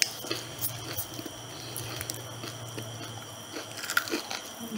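Close-up biting and chewing of battered fried chicken: short crunches and wet mouth sounds, with a few louder bites about four seconds in, over a faint steady hum.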